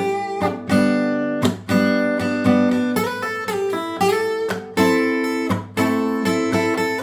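Background music: acoustic guitar strummed and picked, changing chords about once a second.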